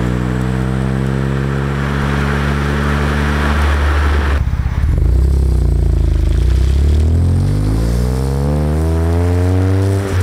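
BMW 335i turbocharged inline-six through an aftermarket cat-back exhaust with catless downpipes, heard at the tailpipe while accelerating: engine pitch climbs, drops suddenly at an upshift about four and a half seconds in, climbs again more quickly, and drops at another shift at the very end.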